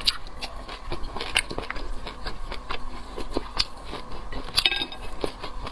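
Close-miked eating sounds: a person biting and chewing food with irregular wet mouth clicks and small crunches.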